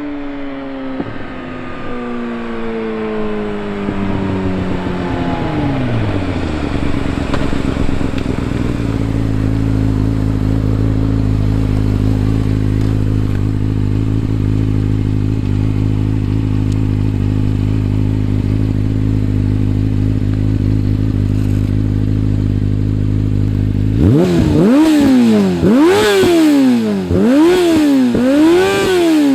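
The 2003 Yamaha YZF-R6's 600cc inline-four, through an Akrapovic exhaust with no dB-killer, winds down in revs over the first few seconds and settles into a steady idle. Near the end it is blipped several times, the revs rising and falling about once a second.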